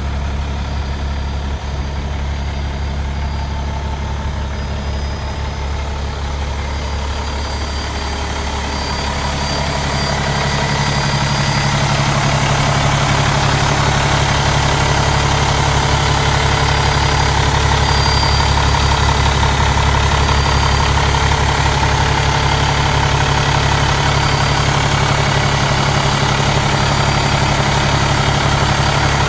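Cummins ISX inline-six diesel engine idling steadily. It grows louder between about eight and twelve seconds in, then holds steady.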